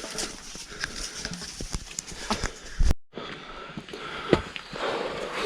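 Footsteps of hikers on a rough, rocky trail: irregular knocks and scuffs, with a brief dropout to silence about three seconds in.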